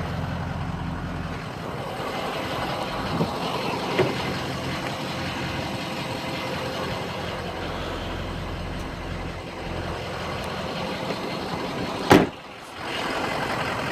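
2004 Ford 6.0-litre Power Stroke V8 diesel idling steadily, with a few light clicks and one sharp knock about twelve seconds in.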